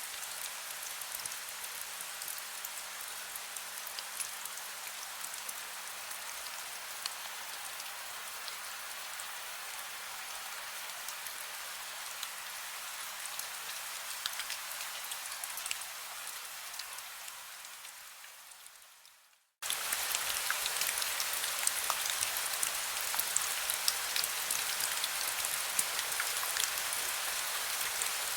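Heavy rain falling, a dense steady hiss crackling with countless individual drop impacts. Past halfway it fades away to a moment of silence, then cuts abruptly back in slightly louder, the join of a looped recording.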